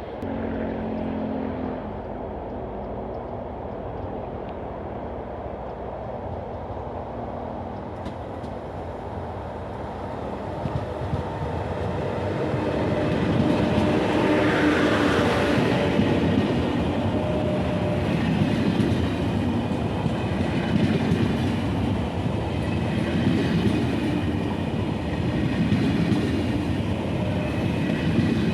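TGV high-speed train running past at low speed, growing louder about halfway through as it comes close, then a steady rumble of wheels on rails.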